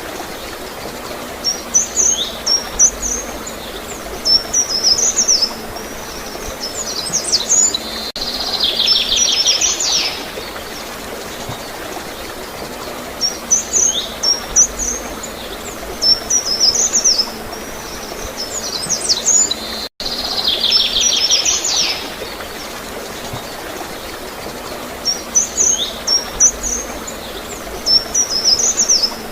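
Small birds chirping in short repeated high phrases, twice breaking into a buzzy trill, over steady flowing, gurgling water. The sound cuts out for an instant about two-thirds of the way through.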